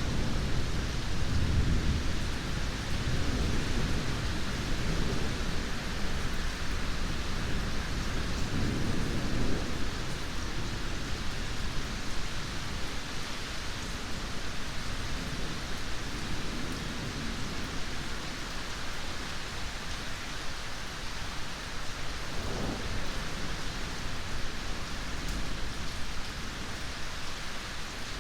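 Steady heavy rain with rolling thunder rumbling low in the first third, dying away to a faint rumble later.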